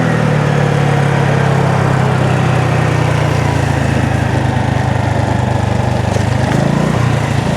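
Honda Navi's small single-cylinder four-stroke engine running steadily while riding, over wind noise; the engine note dips briefly about six and a half seconds in and then picks up again.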